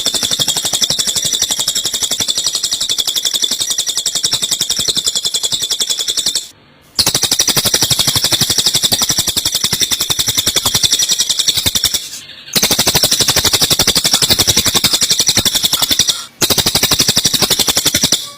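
Eurasian tree sparrows chattering in fighting calls, a rapid, continuous run of high chirps played as a songbird training recording, breaking off briefly three times.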